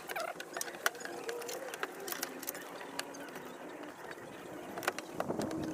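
Irregular light clicks and small knocks of a hand tool working at the tail light's plastic locking pin to pry it out.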